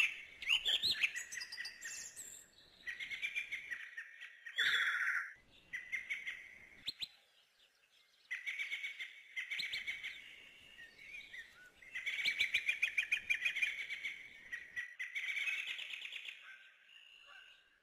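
Small birds chirping and singing in repeated bursts of quick, high trills, with a short pause a little before halfway.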